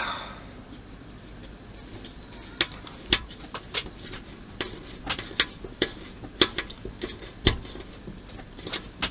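Irregular sharp clicks and clinks, about a dozen and a half, starting a couple of seconds in: a small screwdriver and hard model-kit parts being handled and fitted together.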